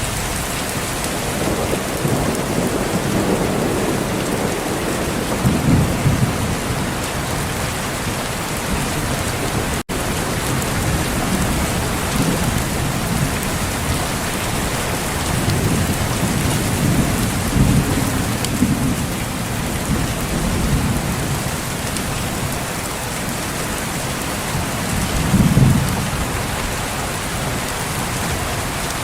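Steady heavy rain with low rolls of thunder swelling up several times, strongest about six seconds in, again from about fifteen to nineteen seconds, and near the end. The sound cuts out for a split second about ten seconds in.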